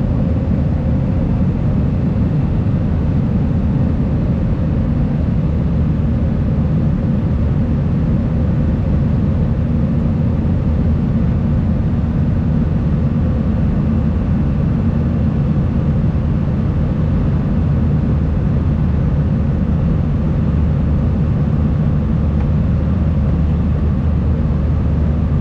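Steady, deep roar of an Airbus A320-200's engines and the airflow, heard inside the passenger cabin during the climb after takeoff, with a faint steady hum over it.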